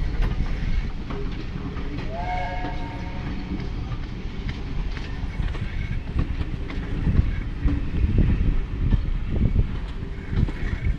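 Passenger carriages of a departing steam train rolling slowly past, a steady low rumble with the wheels knocking over the rail joints. About two seconds in, a brief whistle-like tone sounds for about a second.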